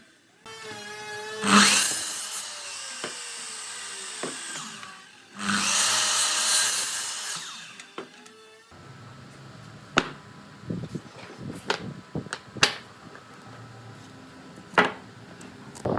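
A handheld power tool's motor whines as it spins, and bites into wood twice in loud bursts of a second or two. After that come a few sharp knocks of wood being handled or tapped.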